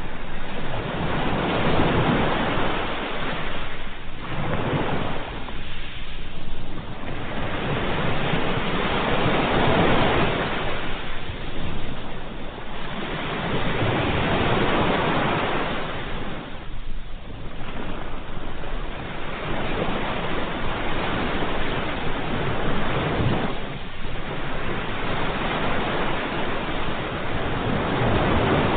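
Ocean surf: waves washing in one after another, the rushing hiss swelling and falling back every few seconds.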